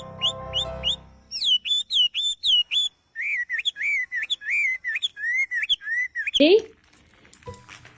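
Pet parrot whistling a fast run of short, pitched notes, about four or five a second, dropping to a lower pitch partway through. Near the end comes one loud rising call.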